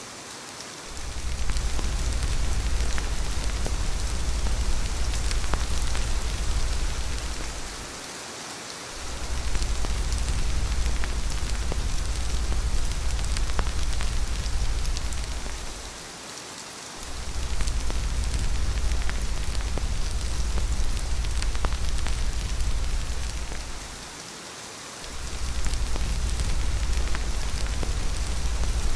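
Steady heavy rain falling, an even hiss with scattered light drop ticks, over a deep low rumble that fades out briefly and returns about every eight seconds.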